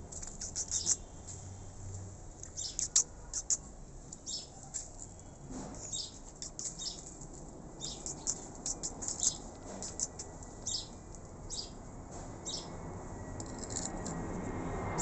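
Small birds chirping: many short, high chirps in quick irregular runs. A low rumble builds near the end.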